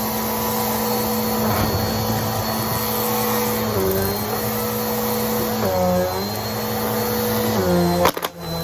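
Vacuum cleaner running steadily, its motor pitch dipping briefly a few times as the suction load changes, with a sharp click and a momentary dropout near the end.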